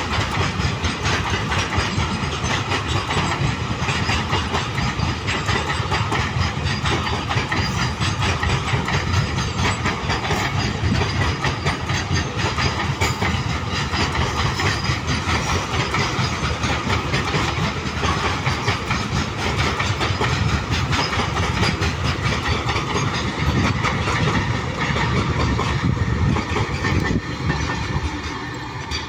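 Container freight train rolling past close by, its wagon wheels clattering steadily over the rails. The noise dips slightly near the end as the last wagon goes by.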